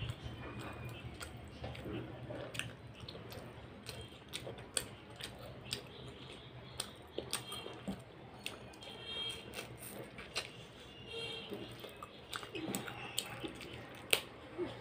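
Close-miked chewing of fried fish, with wet mouth smacks and clicks coming every second or so.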